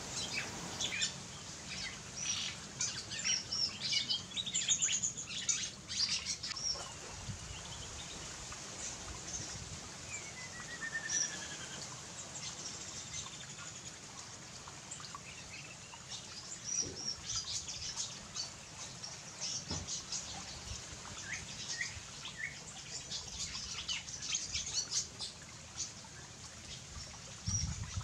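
Small birds chirping: short high calls scattered throughout, busiest around four to six seconds in and again from about seventeen seconds on, with one falling whistled note about ten seconds in.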